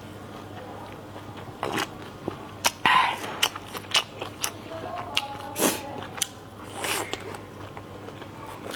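A person chewing and biting food close to the microphone, with irregular wet mouth clicks throughout and a louder cluster about three seconds in.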